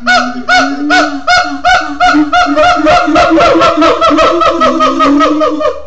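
Siamangs calling: a loud series of ringing, pitched barks that speed up from a couple a second to about five a second by the middle, over a lower steady hooting tone.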